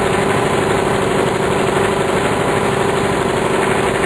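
Briggs & Stratton lawn mower engine running steadily through a scooter muffler fitted as a custom exhaust.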